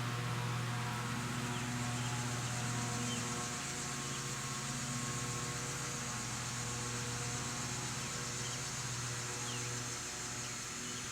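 A steady low hum over an even hiss, with a few faint, very short chirps.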